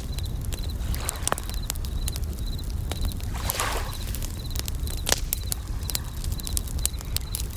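Campfire crackling with frequent sharp pops, over bell crickets (suzumushi) chirping in short high trills that repeat every second or so. A low steady rumble runs underneath, with a brief swell of hiss about three and a half seconds in.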